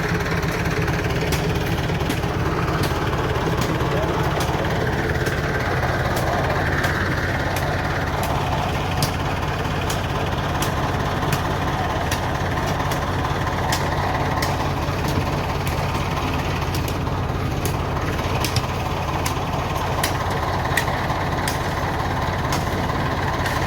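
Tractor engine running steadily while the tractor is stuck in deep mud, with scattered sharp clicks.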